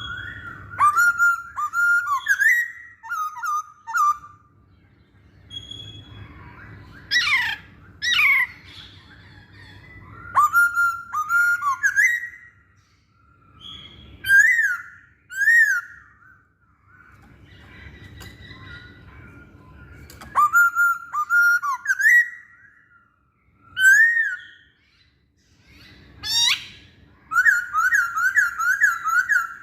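Masked laughingthrush singing: loud phrases of whistled, gliding notes broken by short pauses, with a few harsher sweeping notes, ending in a quick run of repeated notes.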